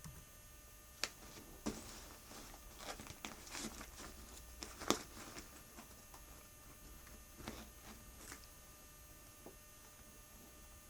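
Faint scattered clicks and soft rustling, as of small movements and handling of things, over a steady low hum; the sharpest clicks come about a second in and again near the middle.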